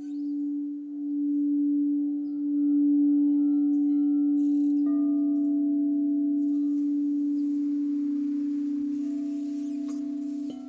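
Crystal singing bowls ringing, a steady low hum that swells and ebbs in slow waves. A second, higher bowl tone joins about halfway through. Near the end there is a soft knock and the sound drops.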